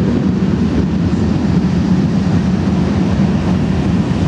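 Steady low rumbling background noise, even throughout, with no clear pitch or rhythm.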